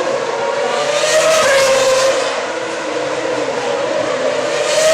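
Formula One cars' 2.4-litre V8 engines running at high revs on the circuit, a steady high-pitched engine note that swells and drops in pitch as cars pass, twice.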